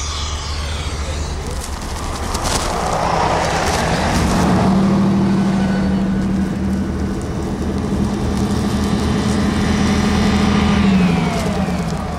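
Snow-covered passenger train passing close by, ploughing through deep snow: the rush of wheels and thrown-up snow with a steady engine note that drops in pitch near the end as the train goes by.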